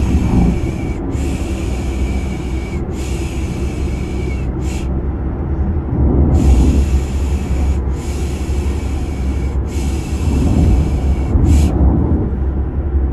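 Rhythmic 'piş piş' shushing, a breathy 'shhh' repeated in groups of three long shushes and one short, heard twice, over the steady deep rumble of a running car heard from inside.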